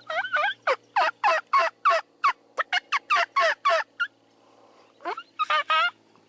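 Wild turkey calling: a fast series of about sixteen sharp notes, each falling in pitch, then a pause and a shorter burst of notes near the end.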